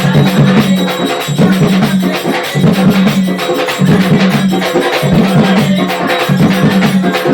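Devotional bhajan music with steady, fast hand percussion, a jingling, tambourine-like beat over a low pitched accompaniment that comes and goes in short phrases.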